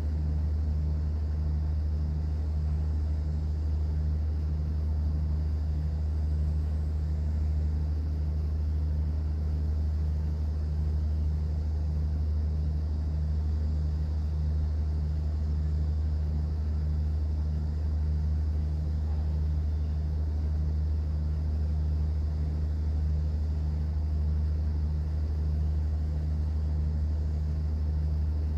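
Cruise boat's engine running steadily underway: a constant low drone with a light, even throb.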